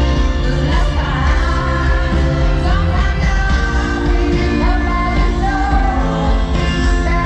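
Live pop concert: a woman singing lead over a loud band with heavy bass, recorded from within the audience.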